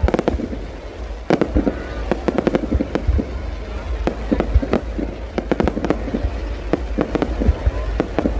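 Aerial fireworks display: a rapid, irregular run of sharp bangs, several a second, over a low rumble.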